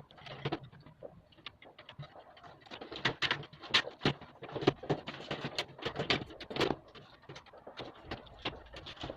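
Irregular clicks and knocks of parts being handled and fitted together, busiest between about three and seven seconds in.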